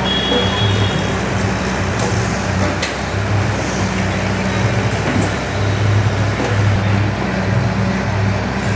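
Heavy diesel engine of a bulldozer running, a steady low engine note that pulses up and down every half second or so.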